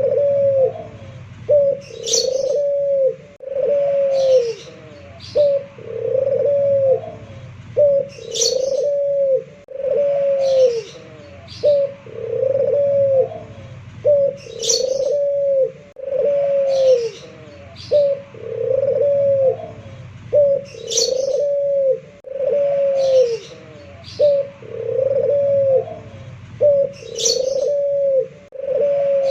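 Puter pelung, a local Indonesian ringneck dove, cooing over and over in a string of low, arching coos. The same phrase comes back about every six seconds, each time with a brief high chirp.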